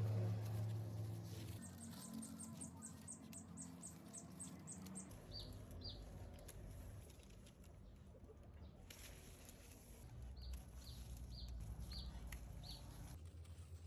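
Faint high-pitched chirps from a small creature: a quick run of about five a second, then two groups of slower, lower chirps, over a low steady hum.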